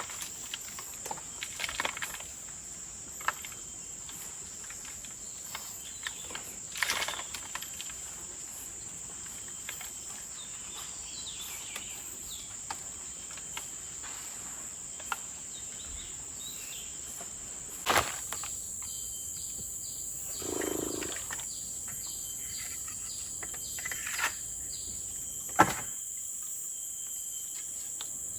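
Tropical forest insects droning steadily on one high note, with scattered sharp knocks and clicks. About eighteen seconds in the insect chorus changes and a quicker pulsing call comes in.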